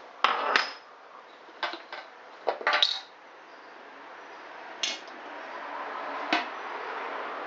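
Metal tools and engine parts clinking and clattering as they are handled and set down on a workbench, in a few sharp knocks spread over the first five seconds. A faint hiss grows slowly louder in the second half.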